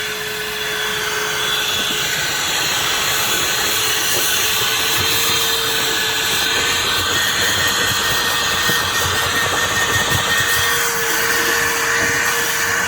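Milwaukee Fuel brushless wet/dry vacuum running steadily with a constant motor whine, sucking up spilled liquid Tide detergent. The whine rises slightly in pitch about six seconds in.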